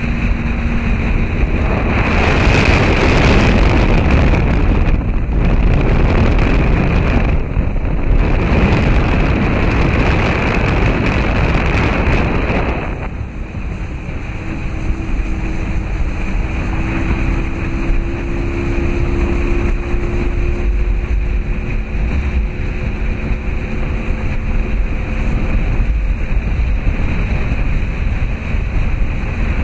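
Wind and water noise rushing over the camcorder microphone at sea, loud for the first dozen seconds and then dropping off sharply. Afterwards a faint steady hum, like a boat's motor, runs under the quieter water noise.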